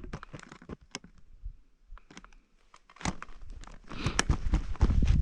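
Close handling noise: a few sharp clicks and rustles, then from about three seconds in a dense, uneven crunching with low rumble, like steps in snow with wind buffeting the microphone.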